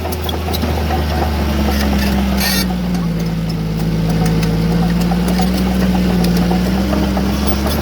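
Diesel engine of heavy earthmoving machinery running, its pitch sagging under load from about two seconds in and coming back up near the end, with scattered light clicks and rattles.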